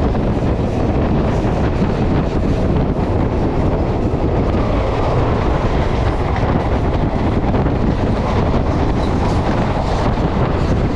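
Wind rush and track rumble from a moving electric suburban train, heard at its open door, with an oncoming EMU local train passing close alongside on the next track.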